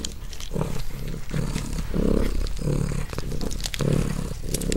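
Porcupine chewing and gnawing its food. Low crunching comes about two or three times a second, mixed with sharp clicks.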